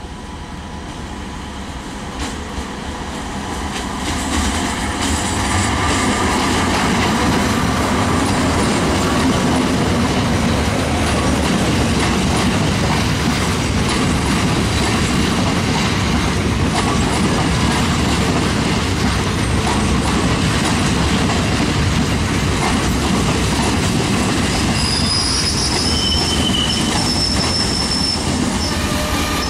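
Diesel-electric multiple unit (DEMU) train running past close by, a steady rumble and clatter of wheels on rails that grows louder over the first several seconds and then holds. Brief high-pitched wheel squeals come near the end.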